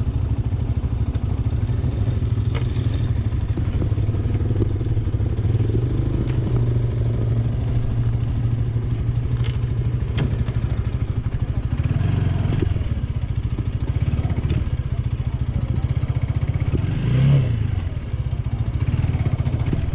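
AKT GP 180 motorcycle engine running steadily under way. Near the end its note swells briefly, then dips. A few faint clicks are heard over it.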